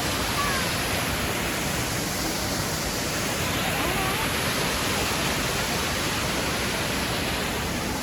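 Steady rushing of the Triberg waterfalls, water pouring down the cascades without a break.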